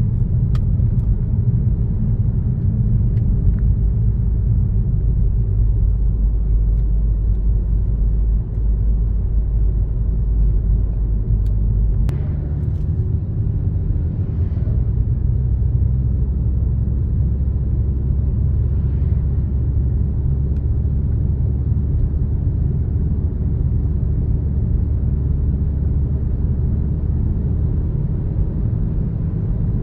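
Car driving on a road: steady low rumble of the engine and tyres, which shifts to a different pitch about twelve seconds in.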